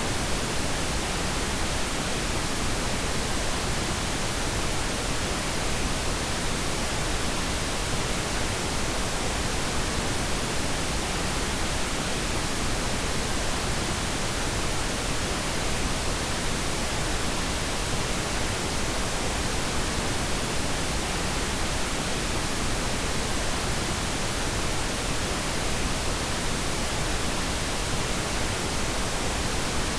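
Synthetic pink noise: a steady, even hiss across the whole range with more weight in the low end, unchanging throughout.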